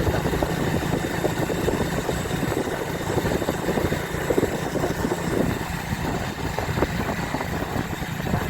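Motorcycle engine running steadily with a low hum, with uneven rough wind and road noise over it.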